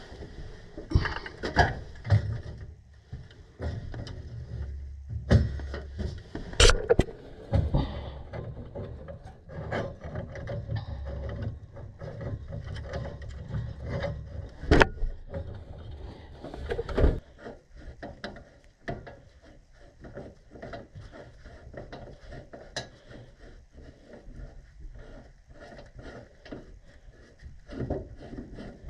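Hand tools working on gas pipe fittings: a long run of metal clicking, ratcheting and scraping, with a few sharper clanks.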